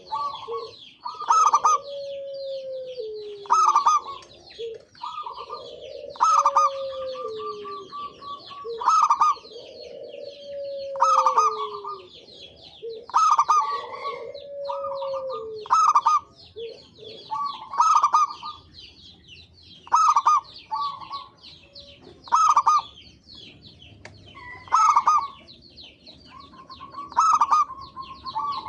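Zebra dove (perkutut) cooing over and over, a call about every two seconds, with a steady high chirping chatter of other birds behind it.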